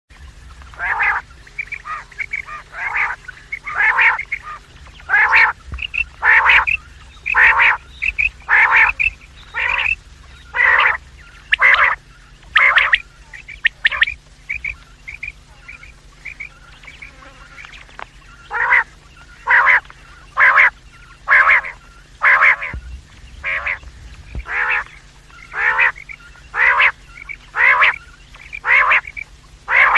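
Quail calling: harsh calls repeated about once a second, with a stretch of short, softer, higher chirps in the middle, over a steady low hum.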